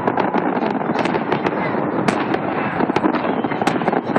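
Fireworks salute going off: a dense, unbroken run of bangs and crackles.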